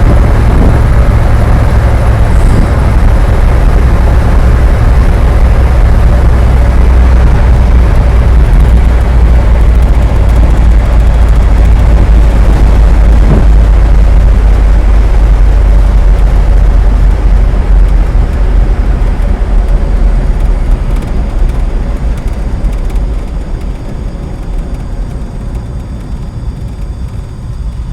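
Loud, steady low rumble of a vehicle on the move, easing off over the last few seconds.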